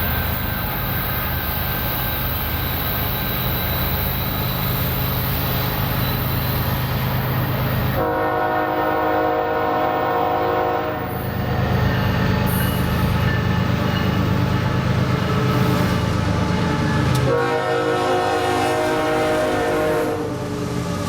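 Diesel freight locomotives running, with a deep low rumble, while the lead unit's air horn is sounded twice, each blast about three seconds long: once about eight seconds in and again near the end.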